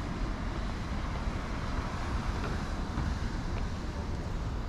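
Wind buffeting the microphone: a steady, fluctuating low rumble over an even outdoor hiss.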